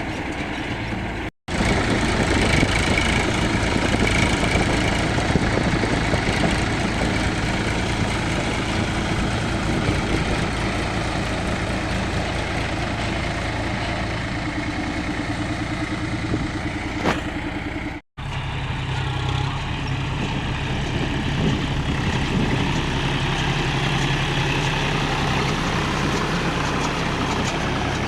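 Diesel tractor engine running steadily while driving a baler. The sound breaks off briefly twice, about a second and a half in and near eighteen seconds, and after the second break a steady low hum is stronger.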